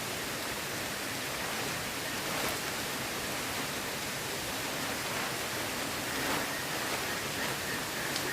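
Steady, even rushing of water, with no distinct events standing out.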